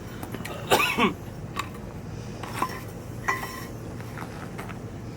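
A few light metal clinks and knocks of tools and cylinder parts being handled, one with a brief ring about three seconds in, and a louder short sound about a second in.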